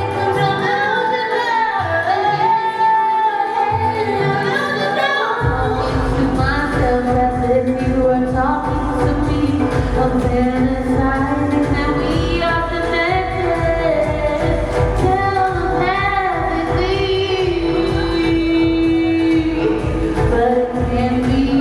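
Electronic pop song performed live: a singer's high, sustained vocal melody over synth backing, with a bass-heavy beat coming in about five seconds in.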